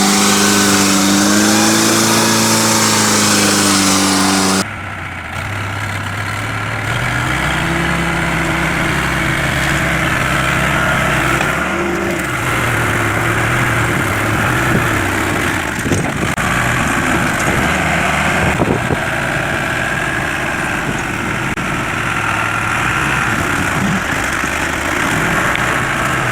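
Tractor engines running, shifting in pitch as they rev, with an abrupt cut to a different clip about four and a half seconds in, after which an engine runs steadily.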